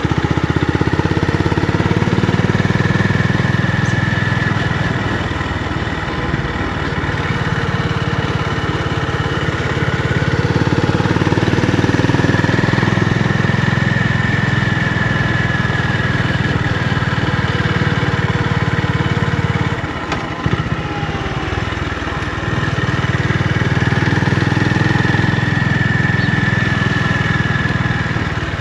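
Honda GB350's single-cylinder engine and exhaust running, its level swelling and easing several times, with a brief drop and uneven beat about twenty seconds in.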